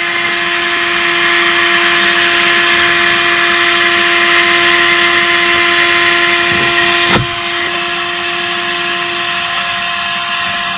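Bergmann Hurricane 12-volt handheld car vacuum cleaner running and sucking up dust from the car interior: a steady motor hum under a loud rush of airflow. About seven seconds in there is a sharp click, and after it the vacuum runs a little quieter.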